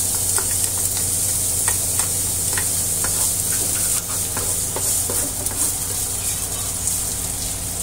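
Minced ginger and garlic sizzling in hot oil in a nonstick wok as they are sautéed, stirred with a plastic ladle that scrapes and taps against the pan every second or so. A steady low hum runs underneath.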